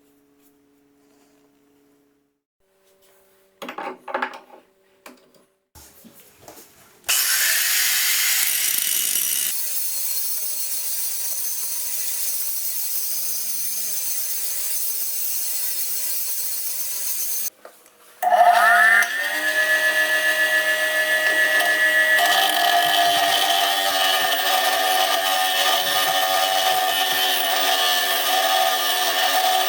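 Electric power tool spinning up with a rising whine and running steadily at full speed. It cuts out about seventeen seconds in and is started again straight away, spinning up once more. A few knocks come first, before the motor starts.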